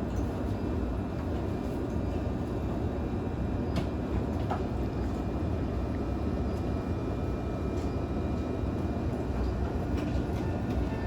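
Steady rumble inside a JR East E531 series electric train car, with faint steady high tones over it. A couple of short clicks come about four seconds in.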